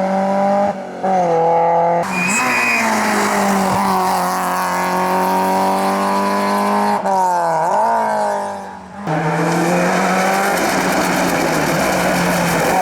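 Rally and hillclimb race cars accelerating hard uphill, engines revving high and climbing in pitch with quick gear changes. A short tyre squeal comes just after two seconds in. The engine sound switches abruptly a few times from one car to another.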